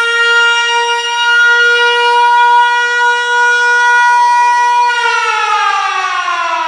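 German World War Two–style air-raid siren holding one steady high wail, then beginning to wind down about five seconds in, its pitch falling steadily.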